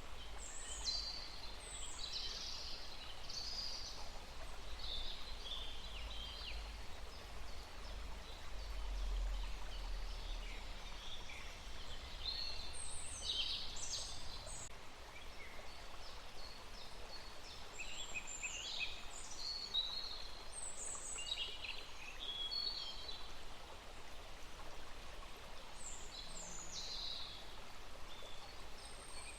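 Songbirds chirping and trilling in short clusters of notes, several calls overlapping at times, over a steady outdoor hiss with a low rumble that swells about a third of the way in.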